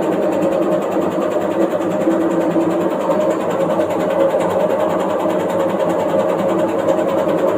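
Washing machine running, a loud steady machine sound with a fast, even rattle, the machine shaking and moving in place.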